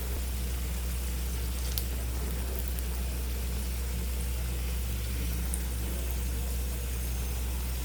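Oil sizzling steadily around stuffed wheat-flour snacks shallow-frying in a kadai, with a few faint pops, over a constant low hum.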